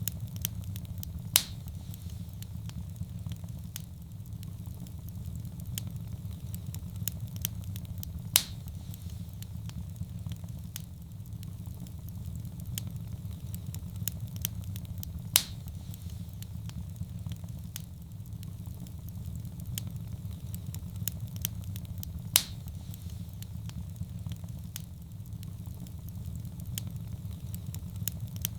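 Wood fire burning in a fireplace: a steady low rumble with many small crackles and a louder sharp pop about every seven seconds.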